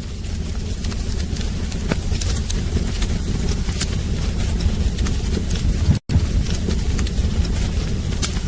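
Wood fire burning in a fireplace: a steady low rumble of flames with frequent sharp crackles and pops. The sound drops out for an instant about six seconds in.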